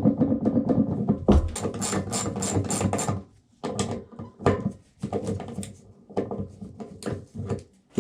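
Hand tools and plastic and metal fittings clicking and clattering while a Vacuflush marine toilet's base is taken apart, with a quick run of rapid clicks in the first few seconds and sparser clicks after.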